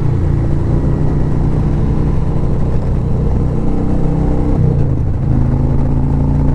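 Harley-Davidson touring motorcycle's V-twin engine running steadily at road speed, its note changing about four and a half seconds in.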